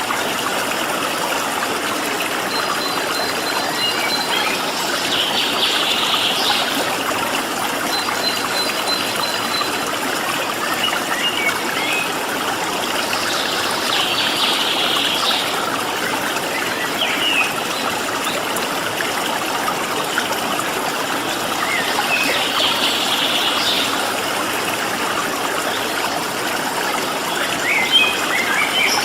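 Steady rush of flowing stream water, with wild birds calling over it. There is a buzzy call about every eight seconds, thin high sustained notes, and scattered short chirps.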